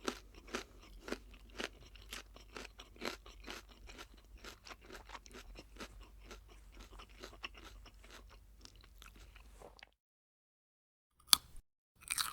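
Crunchy food being chewed with the mouth, a steady run of crunches about two to three a second that slowly grow quieter and stop about ten seconds in. After a short silence, a sharp crunch and then another burst of crunching come near the end.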